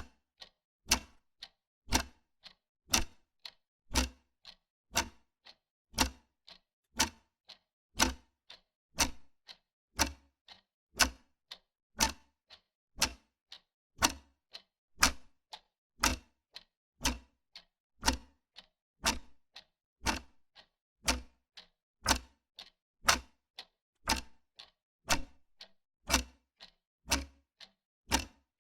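Wall clock ticking steadily, one tick a second with a softer tock in between.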